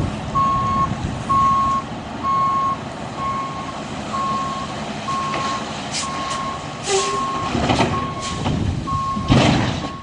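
A heavy vehicle's reversing alarm beeping steadily, about once a second, over the rumble of its diesel engine. A few knocks and clanks sound in the second half, and a louder burst of noise comes near the end.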